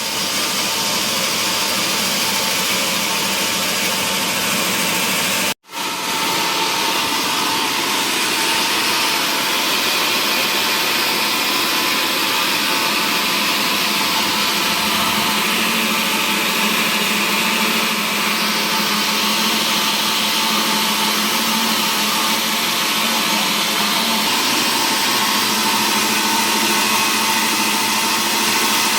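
Wood-processing machinery running steadily: a loud, even machine noise with a faint steady hum. The sound drops out for an instant about five and a half seconds in.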